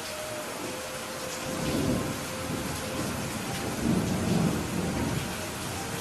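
Steady rain falling, with low rolls of thunder swelling up twice, around two seconds in and again around four to five seconds in.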